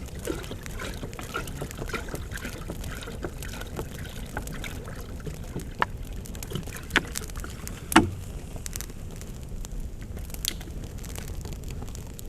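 Campfire burning with a steady low rumble and scattered sharp pops and cracks, the loudest about eight seconds in.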